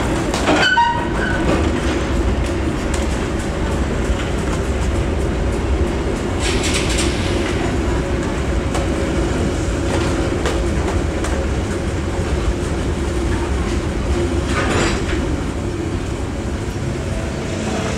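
Indonesian Railways (KAI) passenger coaches rolling past at close range, their steel wheels rumbling and clicking over the rail joints. A brief high squeal comes about a second in.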